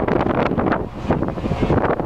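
Strong wind buffeting the microphone, a rough, rapidly fluttering rumble. A little past a second in, a hissing rush rises over it briefly.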